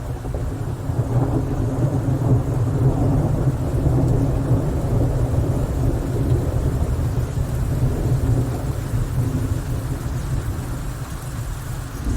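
Rain with a long, low roll of thunder that swells over the first few seconds and slowly fades.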